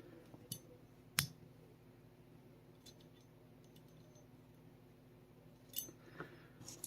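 Small metal clicks and taps from handling the Sig Sauer P365 slide and striker assembly, with one sharp click about a second in and a few lighter ones near the end, over a faint steady hum.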